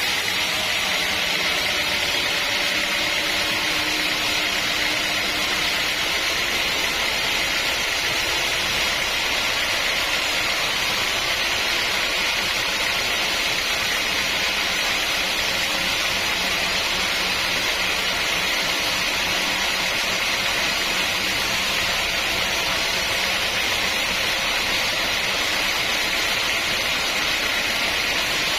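Sawmill machinery running steadily: a continuous even noise with no breaks or changes.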